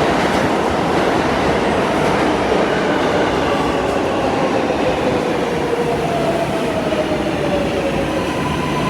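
New York City Subway 7 train running into the station: a loud, steady rumble of the cars on the rails, with a whine that falls slowly in pitch from about the middle, and a steady high tone that sets in near the end.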